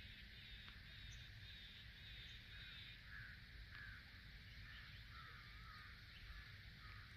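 Birds calling faintly: a run of short, rasping calls about twice a second, then lower, wavering notes in the second half, over a low rumble.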